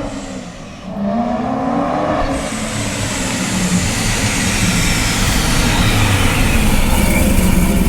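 Supercharged C6 Corvette V8 revving up and accelerating, growing steadily louder, with a high whine that slowly falls in pitch.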